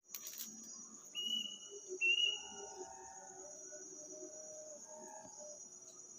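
A night bird's call: two long, flat whistled notes one after the other, the second slightly higher and louder. A steady high-pitched tone runs underneath throughout.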